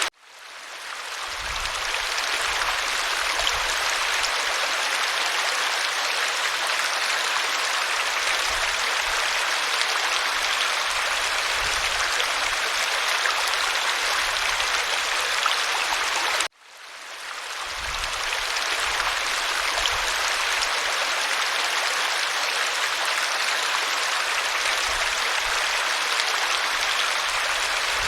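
Waterfall: a steady rush of falling water. It cuts out suddenly twice, at the very start and about halfway through, and each time fades back in over a second or two.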